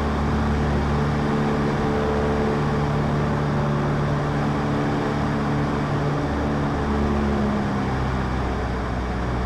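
Cessna 152's four-cylinder engine and propeller running steadily at low power with an even hum, its pitch shifting slightly a few times, as the plane rolls out and turns off the runway after landing.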